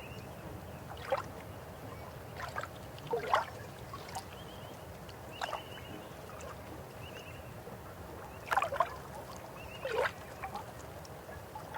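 River water running with a steady rush, broken by irregular louder splashes and gurgles every second or two. Short high bird trills sound faintly several times behind it.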